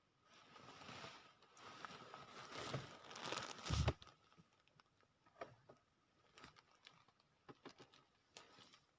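Faint rustling and crinkling for about four seconds, ending in a thump, followed by a few scattered clicks.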